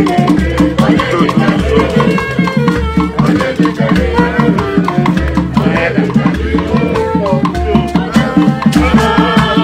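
Live Igbo ogene band music: percussion and rattles playing a steady, busy beat over a low pulse that repeats about once a second.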